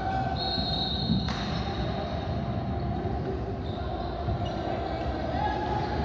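Basketball game sounds in a gym: a ball bouncing on the hardwood over steady court and crowd noise, with a sharp knock about a second in.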